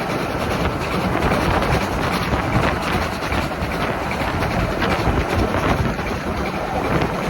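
Train running along the track: a steady rumble and rail noise that carries on without a break.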